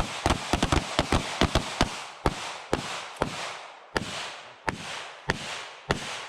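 Pistol gunfire from several shooters on a firing line: a fast run of overlapping shots in the first two seconds, then single shots about every half second to second, each followed by a short echo.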